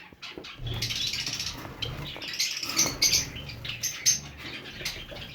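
Cage finches chirping over and over in short, high calls, with a few clicks and rattles as a wire cage and nest box are handled.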